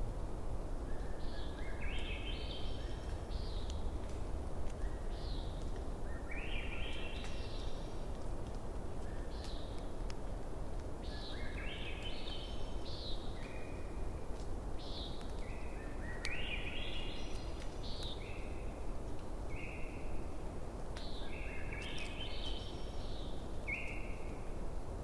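A songbird singing a repeated phrase of stepped, rising notes about every five seconds, with short single notes in between. Under it are a steady low rumble and faint crackles from a campfire.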